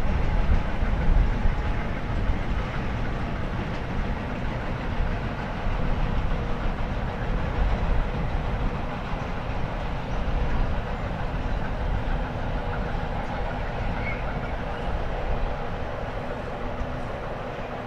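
A train rolling past on the line, a steady rumble of wheels on track that eases a little near the end.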